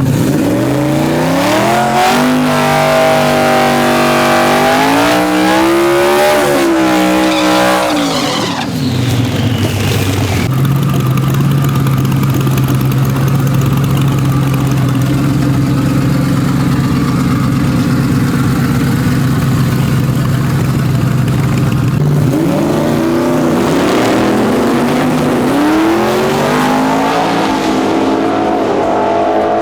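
Race engine on a drag strip. Its revs climb in stepped sweeps for about eight seconds, hold a steady note from about ten seconds to twenty-two, then climb in rising sweeps again near the end.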